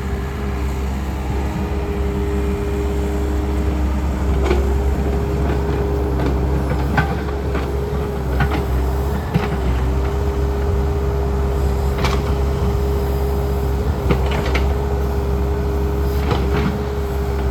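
Takeuchi excavator's diesel engine running steadily under load, with a steady whine over the low drone, while it digs at tree roots. A few sharp knocks and cracks come through at intervals.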